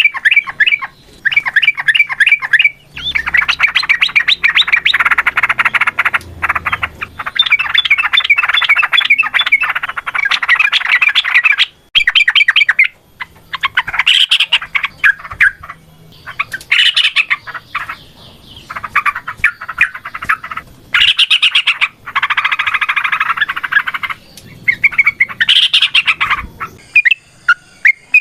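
Yellow-vented bulbul (trucukan) singing loudly in long, rapid chattering phrases of a few seconds each, broken by short pauses. This is the fast, fighting-mode 'ropel' song.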